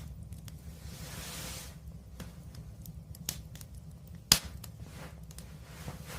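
Wood fire burning with a low steady rumble of flames and scattered small crackles, a short hiss about a second in, and one loud sharp pop a little after four seconds.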